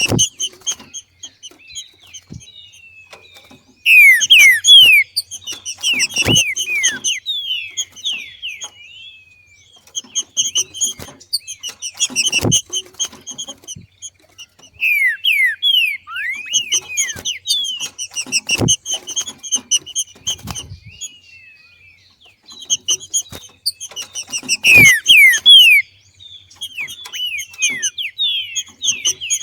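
Green-winged saltator (trinca-ferro) giving its 'macheado', the chattering call of a bird coming into breeding condition: loud phrases of rapid, high, falling chirps, a few seconds apart. A low thump comes about every six seconds.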